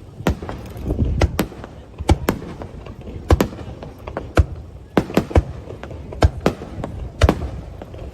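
Fireworks bursting: an uneven string of sharp bangs, about a dozen in eight seconds, over a low rumble.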